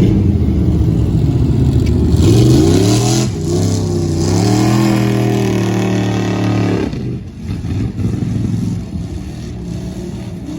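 Truck engine revved hard under load. Its pitch climbs, dips briefly a little past three seconds in, climbs again and holds high, then drops off about seven seconds in.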